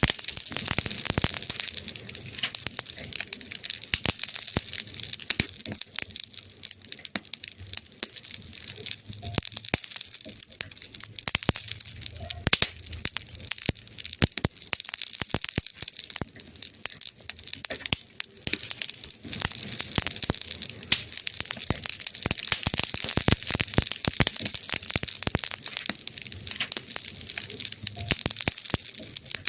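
Wood fire crackling: a dense, irregular stream of snaps and pops over a steady hiss, with a few louder cracks now and then.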